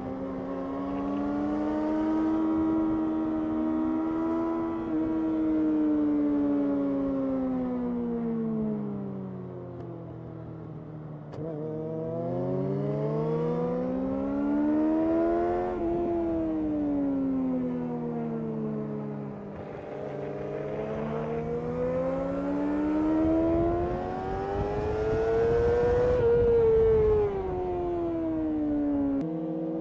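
2005 Yamaha R6's 600 cc inline-four sport-bike engine heard onboard at speed, its pitch sweeping up under acceleration and falling away under braking several times in turn, with sudden steps between sweeps.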